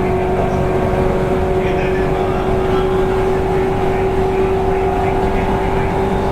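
Running sound inside a JR East 185 series electric train's motor car: a steady hum from the traction motors and gearing over a low rumble of wheels on rail. A higher whine edges slightly upward as the train runs.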